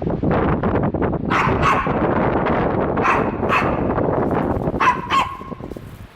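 A dog barking in three pairs of short barks over steady wind noise on the microphone.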